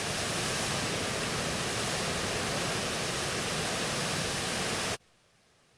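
Rushing water, a steady loud roar like a stream or waterfall, that cuts off suddenly about five seconds in.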